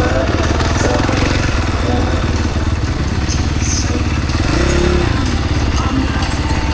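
KTM SX-F four-stroke single-cylinder motocross bike engine running, with a brief rise and fall in revs about five seconds in.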